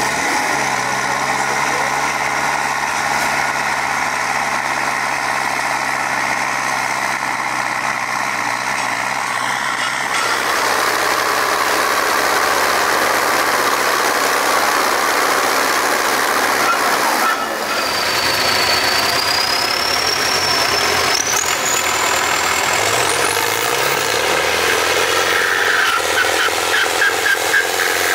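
Tractor engine running hard at a tractor pull, with heavy steady noise over a held low engine note. The low note drops away about two-thirds through, and a high whistle then glides upward for a few seconds.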